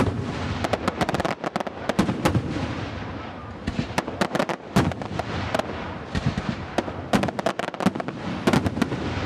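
A fireworks display: rapid bangs and crackling shell bursts in dense clusters, over a steady rumble of earlier bursts.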